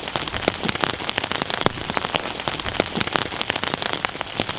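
Heavy rain: a dense, irregular patter of drops, with runoff from a tarp splashing into a plastic tub.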